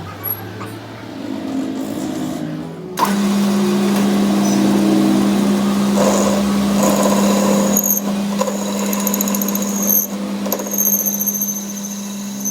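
A workshop machine starts abruptly about three seconds in and runs with a strong steady hum and a rough rasping noise, with short high-pitched whines coming and going in the second half.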